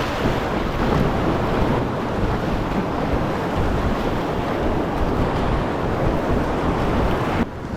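Rushing whitewater of a river rapid heard from a packraft running it, with wind buffeting the microphone. The noise is steady and dips suddenly near the end.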